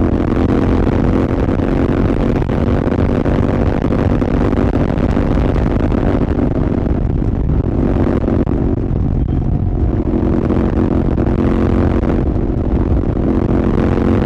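Royal Enfield Continental GT 650's 648 cc parallel-twin engine running through an aftermarket Red Rooster exhaust at steady cruising revs, with a heavy rush of wind over the microphone. The sound thins briefly about halfway through.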